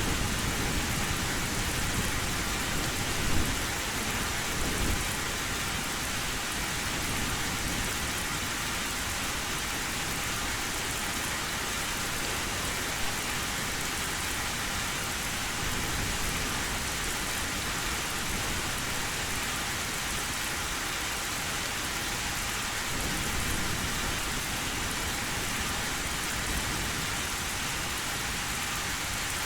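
Heavy rain drumming steadily on an old tin roof, with a brief low rumble of thunder a few seconds in.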